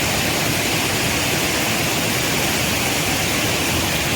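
A 30-metre waterfall in full flow: a steady rush of falling water.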